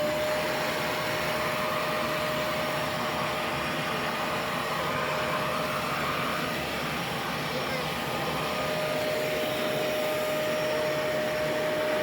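R2-D2-shaped vacuum cleaner running in blower mode, blowing dust out of a desktop computer: a steady motor whine over rushing air.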